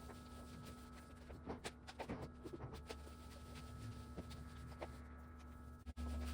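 Quiet room tone: a steady low electrical hum with a few faint clicks and taps, most of them in the first half. Near the end the sound drops out for an instant and the hum comes back louder.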